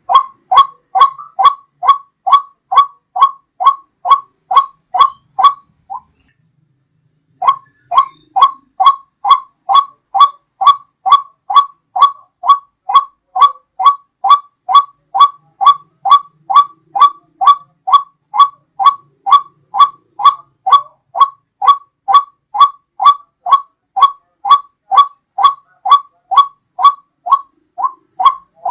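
White-breasted waterhen (ruak-ruak) lure call: a loud, regular string of short falling notes, about two a second. The string breaks off briefly about six seconds in, then resumes.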